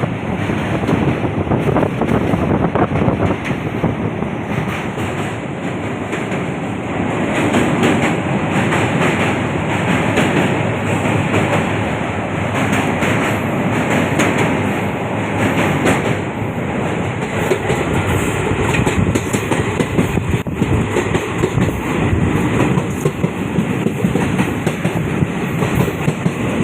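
Train crossing a river bridge at full speed: a steady, loud rumble of wheels on the rails with fast clickety-clack from the wheels over the rail joints, running on without a break.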